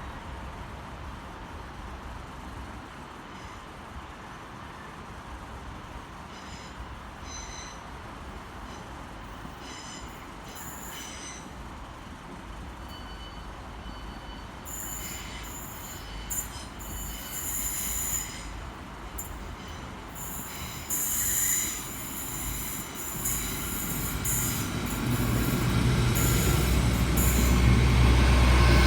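Hull Trains Class 802 bi-mode train approaching. From about halfway there are high-pitched whines and hiss from the rails, coming and going and growing louder, and near the end the deep drone of its underfloor diesel engines rises as it draws close.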